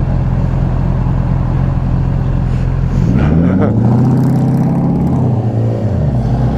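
Yamaha R6 motorcycle engine running at a steady note. About three seconds in, its pitch rises as it revs, holds for a second or so, then falls back.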